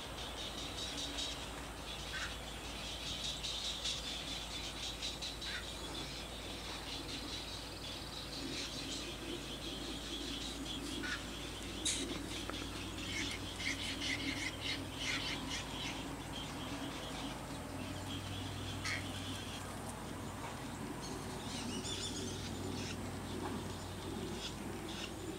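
Birds calling with many short chirps and ticks, over a low steady background hum.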